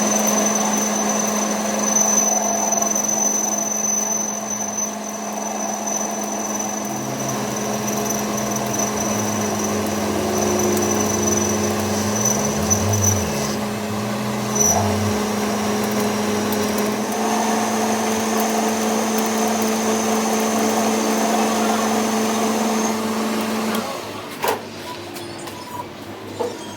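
A power tool's electric motor running steadily, with a constant hum and a thin high whine, then switching off about three seconds before the end, followed by a few sharp clicks.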